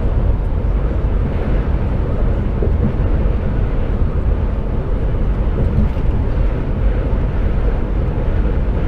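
Steady low rumble of an HGV container truck's engine and road noise, heard from inside the cab while driving.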